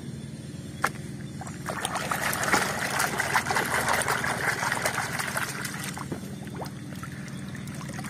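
Muddy water in a plastic tub sloshing and splashing as a hand swishes a plastic toy train through it, louder through the middle. It eases into quieter dripping and trickling as the toy comes out of the water.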